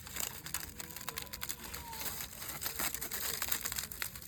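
Aluminium foil around a campfire-baked sweet potato crinkling and crackling as it is handled, a dense run of small irregular crackles.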